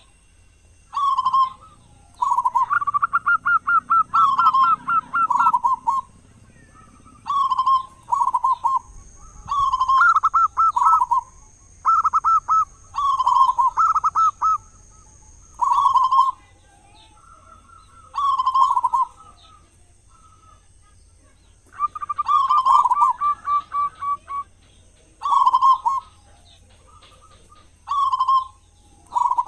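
Zebra dove cooing: short phrases of rolling coos repeated every second or two, with two longer runs of rapid notes, one a few seconds in and one about three quarters of the way through.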